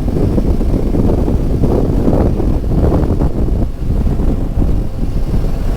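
Riding a motorcycle at road speed: heavy, steady wind noise on the microphone, mostly low, with the vehicle's running noise underneath.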